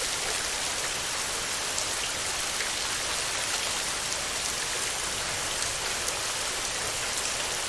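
Heavy rain falling steadily on a metal roof: a dense, even hiss of drops with a few sharper individual drop ticks.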